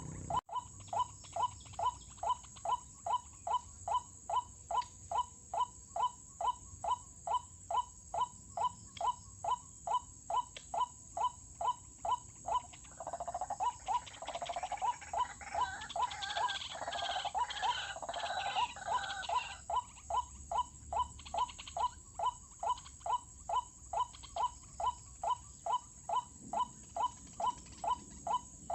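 White-breasted waterhen calling, a monotonous string of short 'ruak' notes repeated about twice a second. In the middle the calling turns denser and rougher, with overlapping notes, for several seconds.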